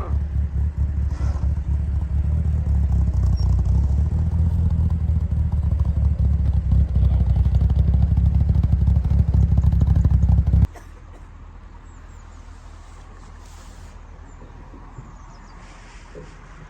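Classic car engine running with a steady low rumble that cuts off suddenly about ten seconds in, leaving a quieter low hum.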